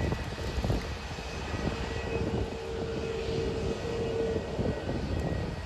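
Jet airliner's engines running: a low rumble with a steady whine, the main whine tone holding for about three seconds in the middle.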